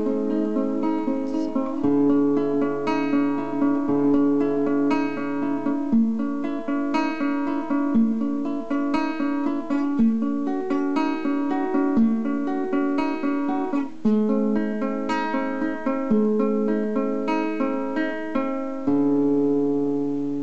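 Guitar playing an instrumental outro, picked note by note over a slow chord progression that changes about every two seconds. It ends on a final chord left to ring and fade.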